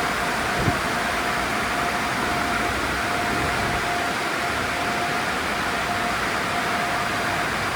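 Steady mechanical rush of an automatic tunnel car wash's equipment running, with a thin whine that comes and goes and a short tick a little under a second in.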